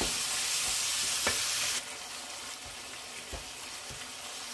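Mutton keema (minced meat) sizzling in hot oil in a nonstick kadhai as a spatula stirs it, with a few short scrapes and knocks of the spatula against the pan. The sizzle drops suddenly quieter a little under two seconds in.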